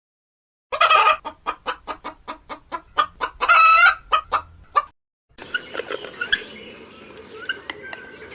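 A hen cackling: a quick run of short clucks, about four a second, broken by two longer, louder squawks. After a brief gap near the middle comes a quieter stretch with scattered chirps over a noisy background.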